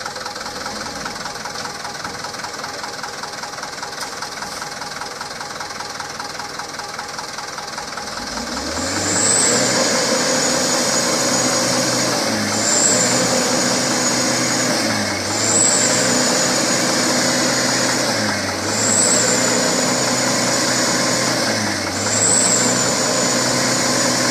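Mitsubishi Canter 4x4 truck engine running low and steady, then revving up hard about a third of the way in. The engine speed then sags and surges again about every three seconds, five times, each surge with a high whistle.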